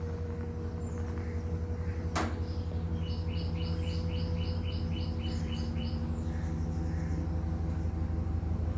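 LG washing machine running with a steady low motor hum, with a single sharp click about two seconds in. A bird outside gives a rapid series of about a dozen chirps, about four a second, from about three to six seconds in.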